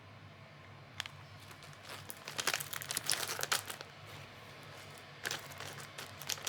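Crinkling and crackling, as of a wrapper or sheet being handled: a long burst from about one to four seconds in and a shorter one near the end.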